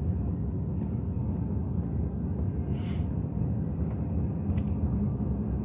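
Four-wheel-drive vehicle driving, a steady low rumble of engine and road noise, with a short hiss about three seconds in.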